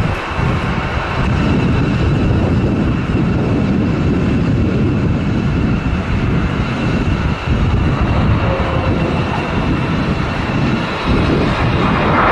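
Jet airliner engines running loud, a heavy low rumble with a faint steady whine above it. The rumble starts abruptly.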